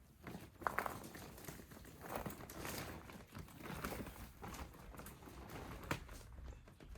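Rustling and crinkling of plastic and clothing being handled, with scattered small clicks and taps.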